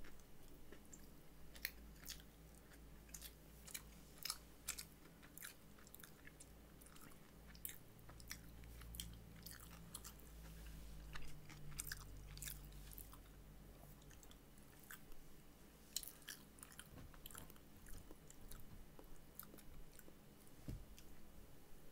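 Quiet, close-up chewing of a fried chicken sandwich: irregular wet mouth clicks and smacks, a couple each second, over a low steady hum.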